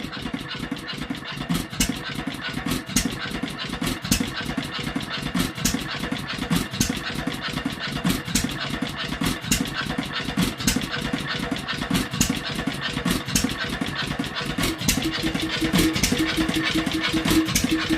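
Bentall Pioneer vertical 2½ hp hit-and-miss stationary engine running, giving a steady rhythm of beats. A steady hum joins in about fifteen seconds in.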